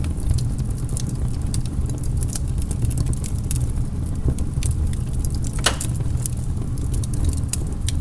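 Wood fire crackling, with irregular sharp pops and snaps over a steady low rumble of flames; one louder pop a little past the middle.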